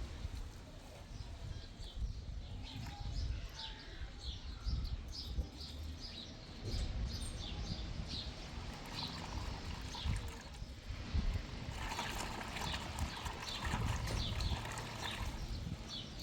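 Small birds chirping over and over in short, high calls, over a low rumble of wind on the microphone.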